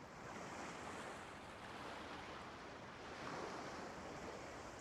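Faint sea surf: a steady wash of waves that swells a little about three seconds in.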